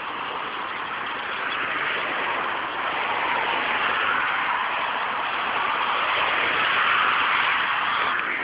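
Steady rushing noise, strongest in the middle and upper range, swelling gently a few times.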